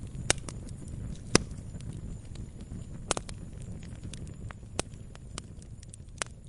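Campfire crackling: a steady low rumble of burning wood with irregular sharp pops, the loudest about a second and a half in.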